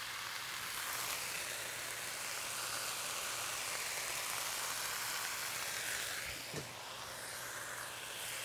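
Bean sprouts sizzling steadily in hot oil in a wok, with a brief soft knock about six and a half seconds in.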